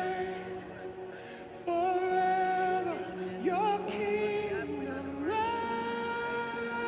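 Slow worship singing: a single voice holds long notes over a steady, sustained low accompaniment. Midway it slides down and back up in pitch, then steps up to a higher held note near the end.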